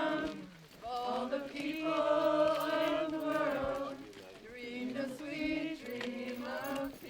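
A group of voices singing a slow chant in long held notes, phrase after phrase with short breaks between.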